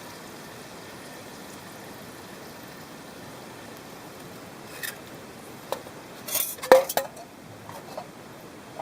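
Camping cookware and utensils clinking and knocking as they are handled and packed away: a few scattered clinks, then a cluster of louder knocks about six to seven seconds in, over a steady low hiss.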